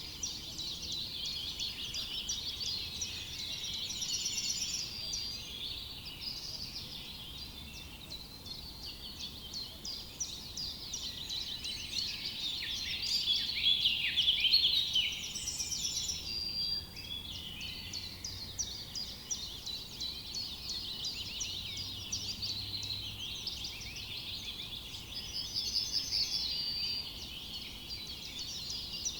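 Many small birds chirping and singing at once in a dense, overlapping forest chorus of quick high chirps and trills, loudest about halfway through.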